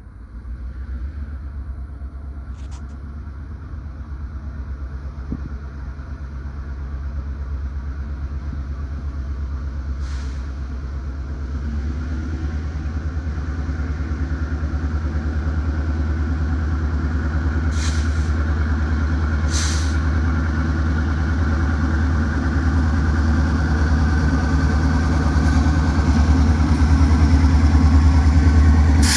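Steady low vehicle rumble that grows slowly louder, with a few brief sharp high sounds on top.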